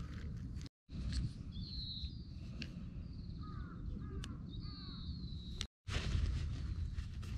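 Wild birds calling outdoors: several high, thin whistled calls and a short run of lower, curved calls in the middle, over a steady low rumble. The sound cuts out completely twice, very briefly.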